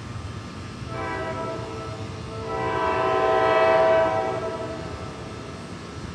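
Horn of an NJ Transit ALP-46A electric locomotive sounding two blasts, a shorter, weaker one followed by a longer, louder one, the signal that the train is about to move off from the station.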